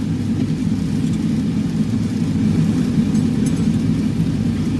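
Steady low rumble of a sander truck's engine and drivetrain, heard from inside the cab as the truck drives slowly.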